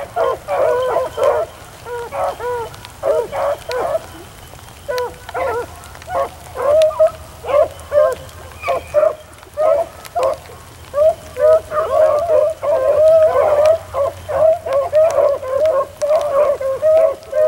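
A pack of beagles baying as they run a rabbit on scent, many voices overlapping in short barks and longer bawls, crowding into an almost unbroken chorus in the second half.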